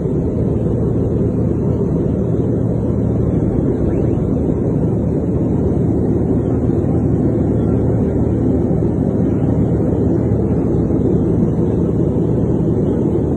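Steady, loud low roar of aircraft engines with no break.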